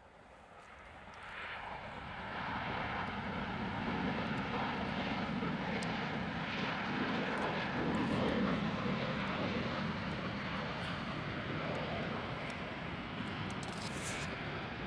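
Jet airliner's engines passing: the noise grows louder over the first few seconds, is loudest about halfway through, then eases slightly, a rumble and rush with a faint whine above it.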